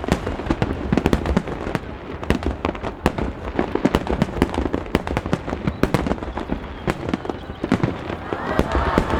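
Aerial fireworks bursting in a rapid, continuous barrage: many sharp booms and crackles a second over a low rumble.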